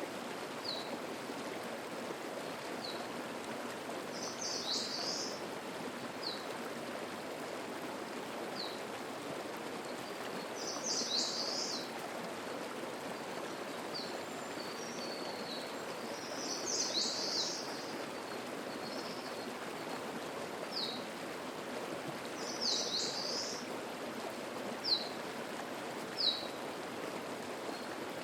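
Mountain stream babbling steadily. Above it a small songbird repeats a short, high burst of song about every six seconds, with single short, high call notes in between.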